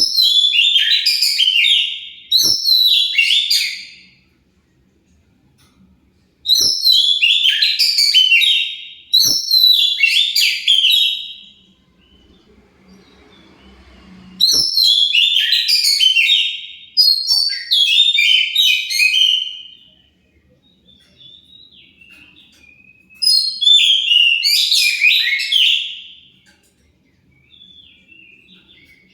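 Oriental magpie-robin (kacer) singing loud bursts of rapid, varied whistled phrases, about seven in all, each two to four seconds long with short pauses between.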